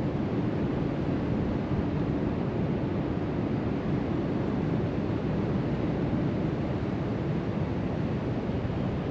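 Surf breaking along the beach, mixed with wind buffeting the microphone: a steady, low rushing with no separate events.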